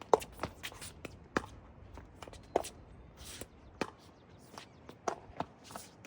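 Pickleball rally: paddles striking the plastic ball, with the ball bouncing on the court between hits. The hits are sharp and come about a second apart, some in quick pairs.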